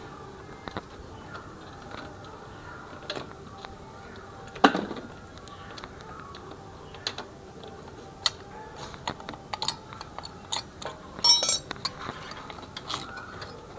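Small metal clicks and clinks of a screwdriver and screws as the three screws of a motorcycle engine's oil filter cover are undone, with a sharper knock about four and a half seconds in and a quick run of clicks near the end.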